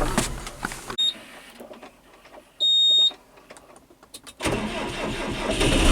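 A vehicle engine runs, then cuts out sharply about a second in. A short high electronic beep follows, with a longer one about two and a half seconds in. The engine starts and keeps running from about four and a half seconds in.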